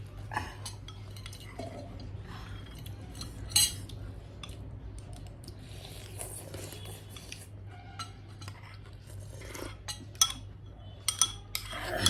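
Cutlery clinking and scraping against plates and bowls during a meal, in scattered sharp clinks, with a steady low hum underneath.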